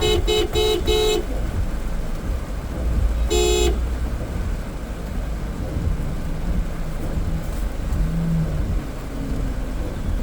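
A vehicle horn tooting in quick repeated beeps, about three a second, stopping about a second in, then one more short toot a few seconds later, over the low rumble of traffic.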